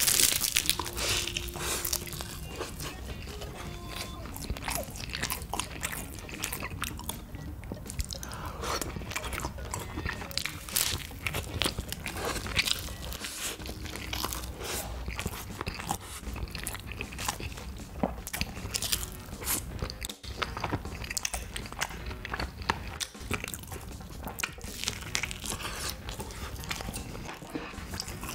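A person biting and chewing food close to the microphone, with many short, sharp crunchy clicks.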